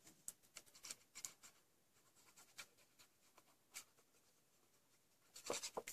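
Faint scattered taps and light rustles of card and paper pieces being handled and laid down on a craft table, with a quick run of louder clicks near the end.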